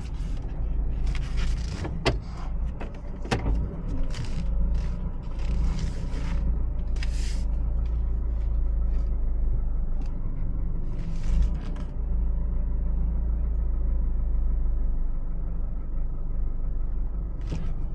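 Honda CR-V heard from inside the cabin while moving slowly: a steady low engine and road hum, with scattered clicks and short hissing sounds through the first seven seconds and again around eleven seconds in.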